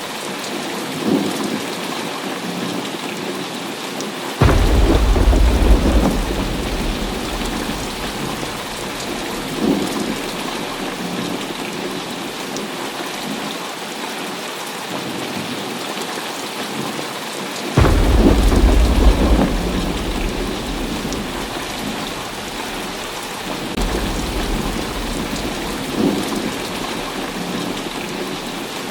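Heavy rain falling steadily, with thunder rumbling. Two loud claps come in suddenly, about four seconds in and again near eighteen seconds, each rolling off over a few seconds, with fainter rumbles in between.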